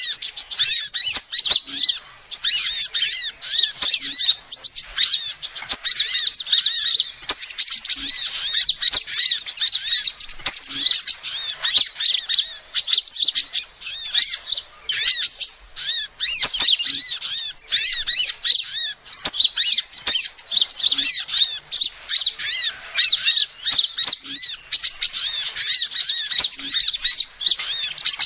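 Female sunbird calling: a continuous stream of rapid, high-pitched chirps with only brief pauses, as used for a bird-lure recording.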